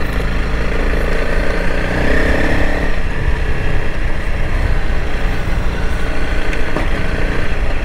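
Honda CRF300L Rally's single-cylinder four-stroke engine running steadily while the bike is ridden, with a slight rise and fall in revs about two seconds in.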